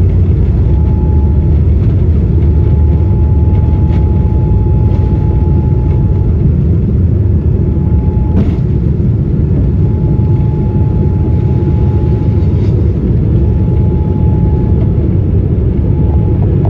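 Cabin noise inside a Boeing 787-9 airliner: a steady, loud low rumble of the jet engines and airframe, with a faint steady whine that comes and goes. A single sharp click sounds about eight seconds in.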